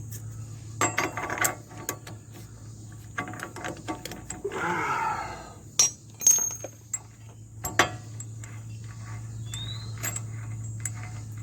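Hand tools working on the GMC Envoy's front wheel hub: irregular metal-on-metal clinks, clicks and knocks as a socket and wrench are fitted and worked to loosen a nut. The sharpest knocks come about six and eight seconds in.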